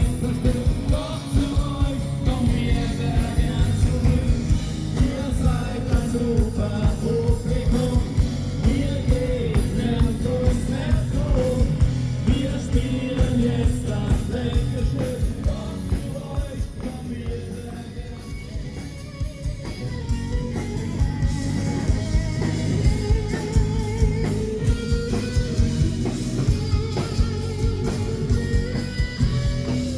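Live rock band playing with a singer over drums and guitar, a steady beat throughout.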